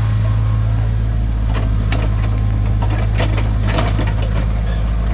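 Excavator's diesel engine running steadily under load, with a run of metallic clanks and knocks in the middle and a short high-pitched squeal about two seconds in.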